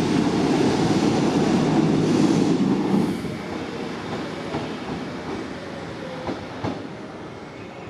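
Class 150 Sprinter diesel multiple unit pulling out of the platform. Its rumble is loud for about three seconds, then drops and fades as it moves away, with a few faint clicks from the wheels.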